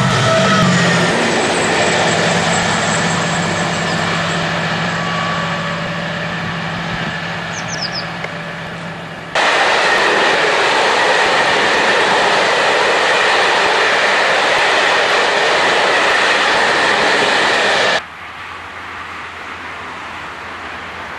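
Diesel locomotive running, its low engine note fading away over the first several seconds. An abrupt cut brings a loud, steady rail noise with a high, even whine, which cuts off sharply near the end to a quieter low hum.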